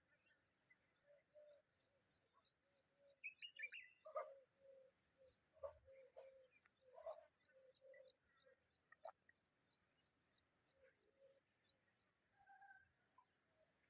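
Faint bird chirping and calls: a fast run of short high ticking notes, about four a second, that stops for a few seconds and starts again, with scattered lower call notes underneath.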